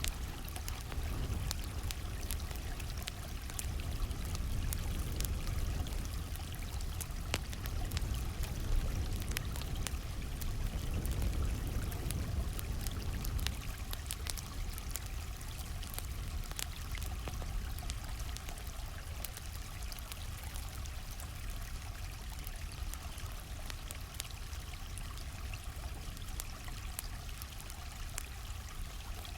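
A stream flowing in a steady rush of water, with a campfire's sharp crackles and pops scattered over it.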